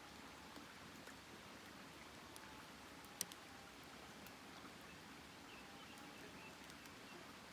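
Wood campfire burning quietly: faint scattered crackles over a low hiss, with one sharp pop a little over three seconds in.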